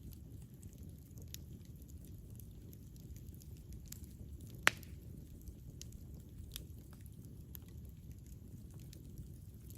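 Campfire burning: a steady low rumble with scattered light crackles, and one sharp, loud pop about halfway through.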